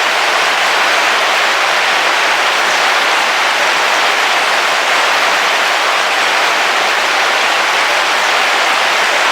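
Heavy rain falling steadily on the roof of a camping car, heard from inside, as an even hiss with no thunder.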